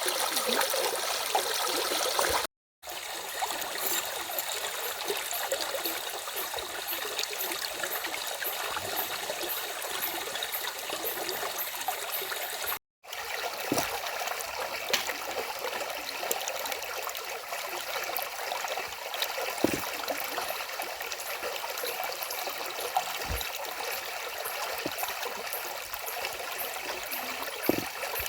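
Stream flowing steadily, a continuous rush of running water. It drops out to silence for a split second twice, a couple of seconds in and again about 13 seconds in, where the recording is cut.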